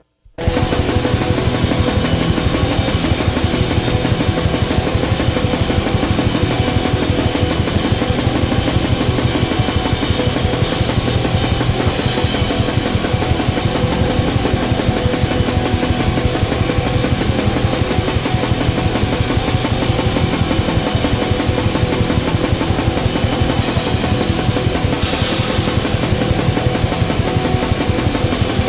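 Raw black metal: distorted guitars and fast, dense drumming in a continuous wall of sound, which starts abruptly a moment in.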